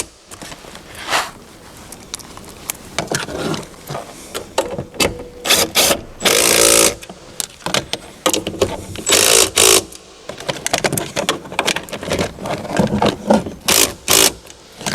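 Mirror mounting nuts being run onto their studs and tightened with a socket wrench: an irregular string of metallic clicks and rattles, with a few short scraping bursts.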